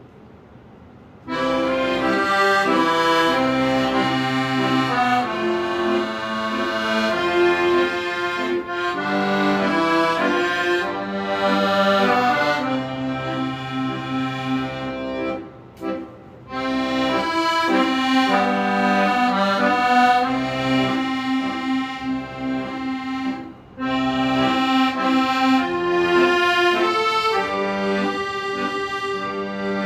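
Accordion playing a melody over sustained chords and low bass notes, starting about a second in, with brief breaths between phrases twice.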